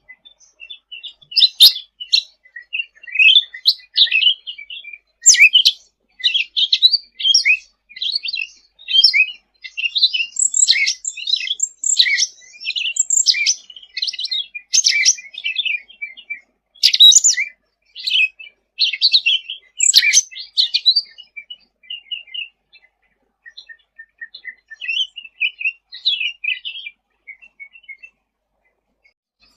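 Cucak ranting songbird singing vigorously: rapid, high-pitched chattering and twittering phrases in quick succession, thinning to softer, scattered notes for the last several seconds.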